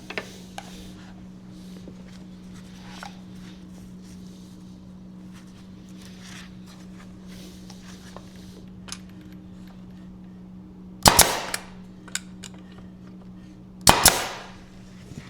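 Nail gun shooting fasteners into thin wooden stakes: a sharp double shot about eleven seconds in, then a single shot about three seconds later, each with a short ringing tail, with faint clicks and handling knocks between.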